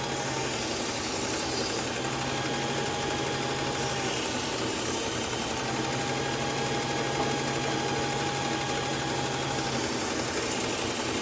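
Powered belt sharpener running steadily with a knife edge held against the abrasive belt, a constant motor hum under an even grinding hiss. The edge is being refined past the 120-grit scratches while the burr is worked back and forth to come off.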